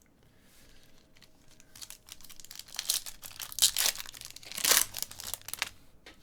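Trading card pack wrapper being torn open and crinkled by hand, a crackling rip that builds up and is loudest about three to five seconds in before dying away.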